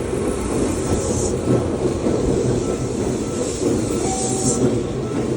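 Seibu 2000 series electric train pulling into a station, its wheels and running gear giving a steady rumble with rail clatter. A hiss rises briefly near the start and again about four seconds in.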